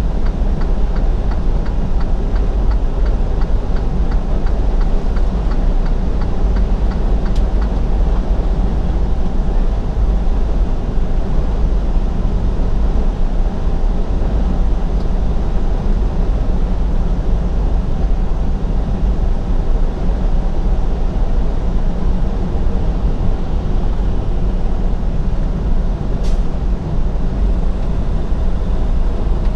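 Semi-truck cab interior while driving: steady diesel engine drone and road noise, strongest in the deep low rumble, with a brief click near the end.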